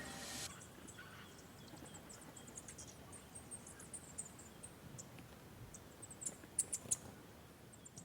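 Background music ending about half a second in, then small birds chirping faintly with short high-pitched calls, a few louder chirps near the end.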